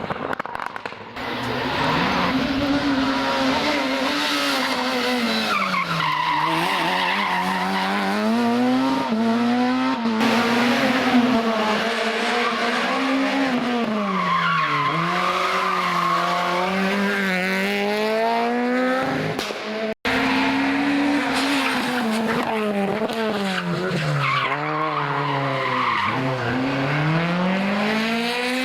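Rally car engines at full throttle, the note climbing through the revs and dropping sharply again and again with each gear change and lift. There is a brief cut about twenty seconds in, and then another run of the same rising and falling engine note.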